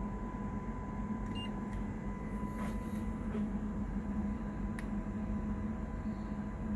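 Steady electrical hum and hiss on the test bench, with a faint, steady 1 kHz test tone and a couple of small clicks.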